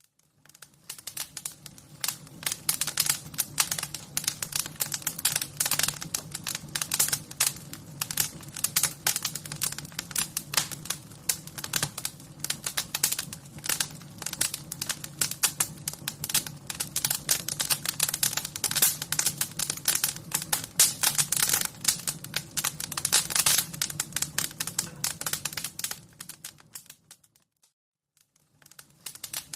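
Wood fire crackling: dense, irregular pops and snaps over a low steady rumble. It fades in at the start and drops to near silence for about a second and a half near the end, then picks up again.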